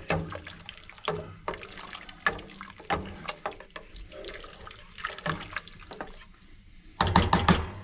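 Liquid sloshing and splashing in a soup pot, with scattered light clinks and a louder clatter near the end.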